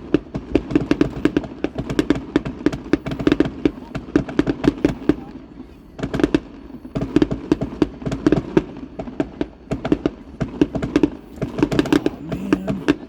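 Fireworks display going off in a dense, rapid string of bangs and crackles, with a short lull about five seconds in before it picks up again.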